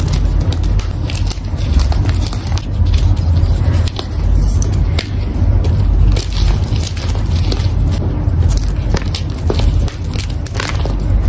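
Gym chalk crushed by hand: a dense run of crunchy crackles over a steady low rumble.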